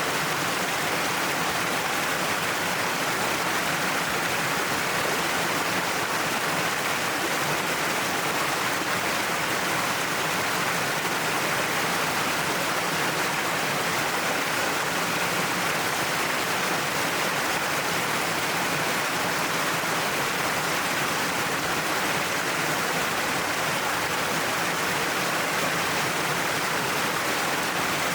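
Waterfall pouring down a cliff: a steady, even rush of falling water that does not change.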